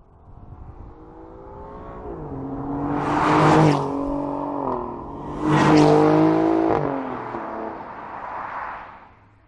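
Alfa Romeo Giulia Quadrifoglio's twin-turbo V6 accelerating hard. The engine note climbs in pitch, steps down at gear changes, and peaks loudest twice. It fades away near the end.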